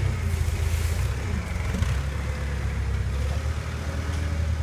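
Steady low mechanical rumble, like a machine or engine running.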